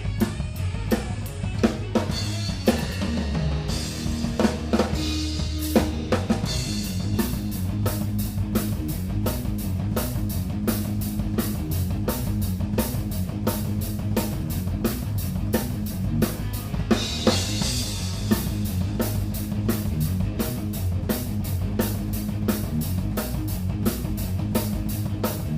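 Rock band playing live, led by a drum kit with bass drum and snare hits over bass and guitar. A looser stretch with a held low bass note gives way about six seconds in to a steady, even beat.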